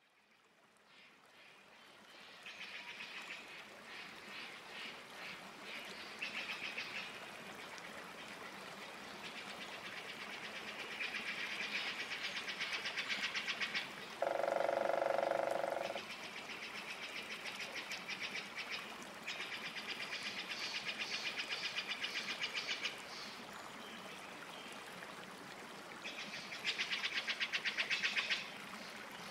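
Steady rush of a small waterfall, with repeated bursts of rapid, high trilling calls, each lasting one to a few seconds. About halfway there is one longer, lower call.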